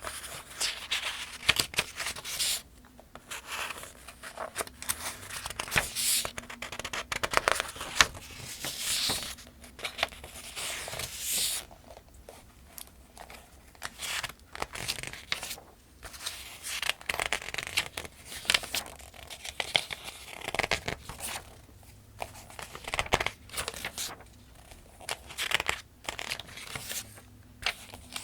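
Pages of a paperback almanac being turned one after another at a steady pace. Each turn is a short swish and crackle of paper, with small sharp taps, about every one to two seconds.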